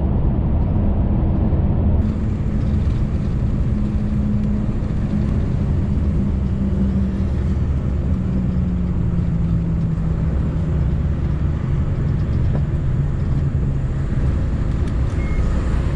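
Scania V8 truck engine running steadily under way, a low drone whose note falls gradually between about four and ten seconds in.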